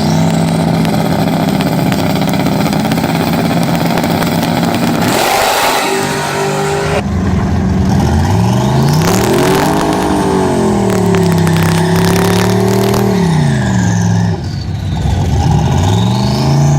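Twin-turbo 6.0 L LQ4 V8 in a Datsun 240Z running at a held engine speed, then a loud hissing rush about five seconds in, after which the engine is revved up and down, pitch swinging up and back, and rises once more near the end.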